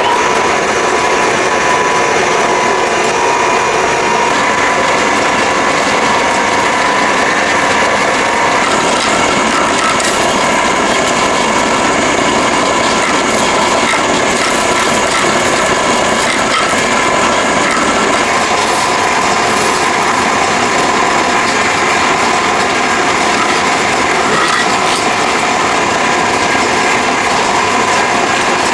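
A motor-driven machine or power tool running continuously and loudly: a steady whine over a dense grinding hiss, with no change in speed.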